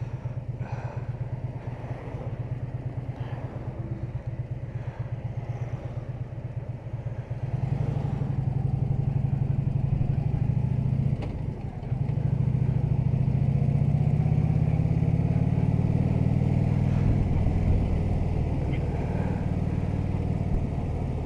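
Harley-Davidson touring motorcycle's V-twin engine, first ticking over at a slow lumpy idle while the bike waits, then opening up about seven seconds in as it pulls away. There is a short drop near the middle, like a gear change, and then it runs steadily under way.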